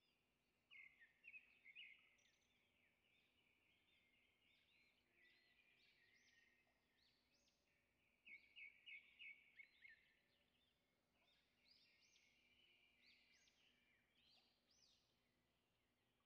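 Very faint birds chirping in the background, with bursts of quick repeated high notes about a second in and again around eight seconds in, over a faint steady hum.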